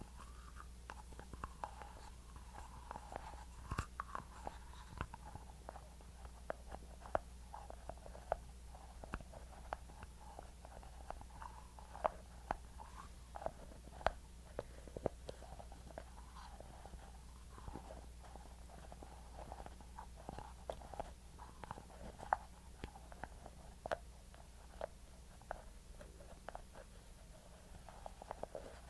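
Close-miked ASMR skincare sounds: a thick, sticky product such as Vaseline being worked near the microphone, making irregular small wet clicks and crackles over a steady low hum.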